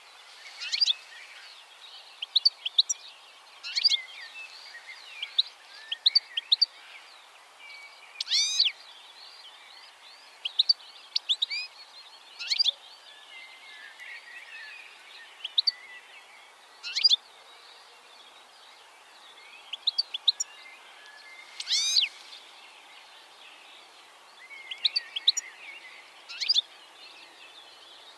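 Bird chirping in short clusters of sharp, high notes, many sweeping downward, every second or two. A longer call comes about a third of the way in and again about three quarters in, over a faint steady background hiss.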